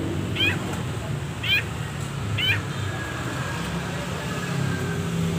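A bird gives short, sharp, wavering calls, three of them about a second apart, then stops. A low steady rumble runs underneath.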